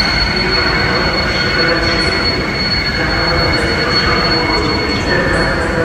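Electric multiple unit train rolling slowly into a station platform, its wheels squealing with a steady high-pitched tone over a low rumble.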